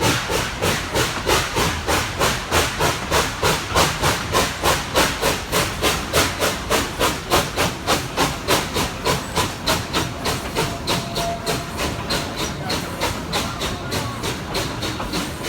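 Baldwin steam locomotive chuffing under way: rapid, even exhaust beats, about three to four a second, growing somewhat softer in the second half.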